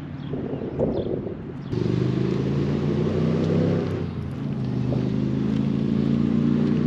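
Motor vehicle engine running steadily from about two seconds in, its low hum holding at a level pitch. Before that there is a short stretch of wind and rustling.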